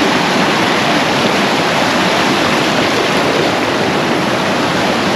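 Loud, steady rush of a fast-flowing mountain stream over rocks.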